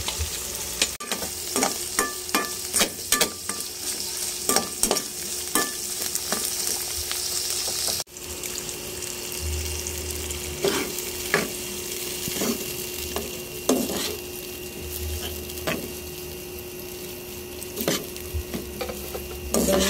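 Diced ham, bacon and mushrooms sizzling in a nonstick wok, with a metal spoon clicking and scraping against the pan as the food is stirred.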